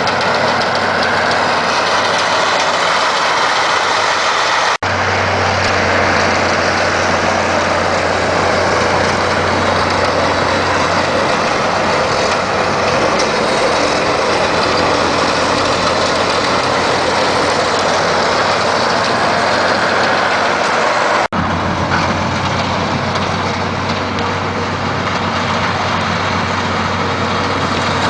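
Oliver 1850 tractor's six-cylinder Perkins 354 diesel running steadily, driving a homemade snowblower built from a Gehl blower. The sound breaks off for an instant twice.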